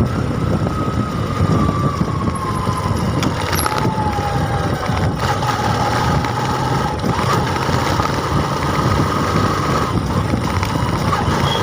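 Steady engine and road noise of a moving vehicle, with a low rumble and wind on the microphone. A whine sits over it, slowly dropping in pitch over the first half and rising again later.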